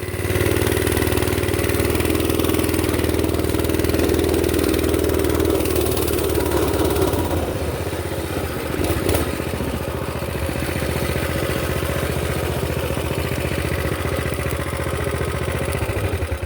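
Mini bike's small engine running steadily, stronger in the first half and then a little lower, dying away at the very end as it stalls.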